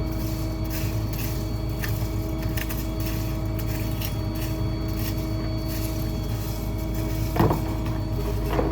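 Ford F-550 rear-load garbage truck running steadily, with a single sharp knock about seven seconds in and lighter knocks near the end.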